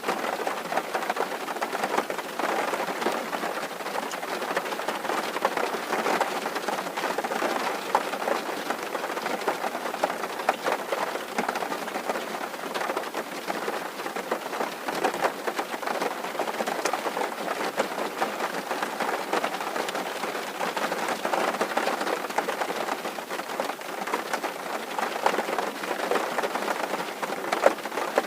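Rain falling steadily on a tin roof: a dense, even patter with many small sharp drop hits on the metal.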